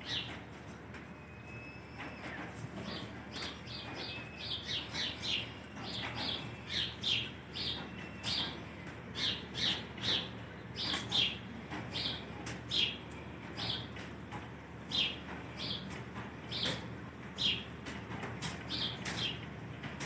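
Bird chirping: many short, sharp, high calls, each slightly falling in pitch, coming in quick irregular runs over a steady low background hum.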